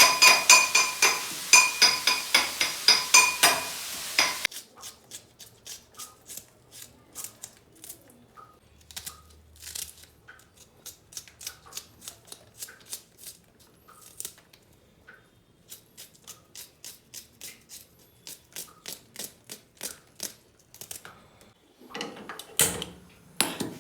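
A knife chopping on a cutting board: a steady run of sharp knocks, about two a second, loud and ringing for the first four seconds, then softer.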